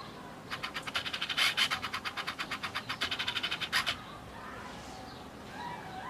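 Rapid dry scratching, about ten quick strokes a second for roughly three seconds, stopping abruptly.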